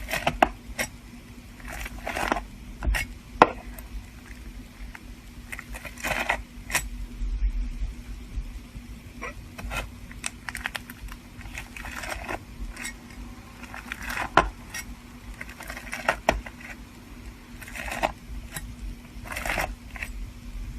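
A knife cutting into crunchy slime: bursts of crackling crunches as the blade presses through, with sharp taps of the knife against the surface beneath, coming irregularly every second or so.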